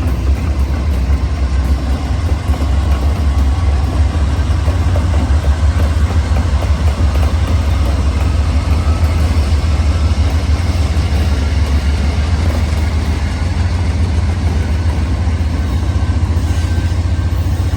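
Steady low rumble of a moving train, with faint high tones over it.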